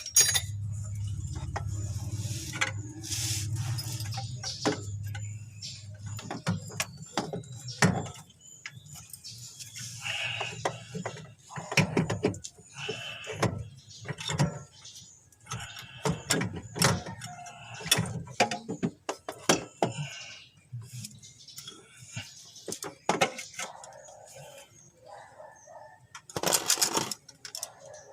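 Scattered metal clinks and knocks of hand tools working on a car starter motor, with a low steady hum for the first few seconds.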